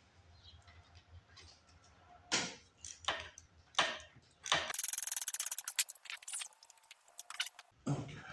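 Hand work on mini bike parts: a few sharp clicks and knocks, then about three seconds of fast, even clicking, and a few more clicks near the end.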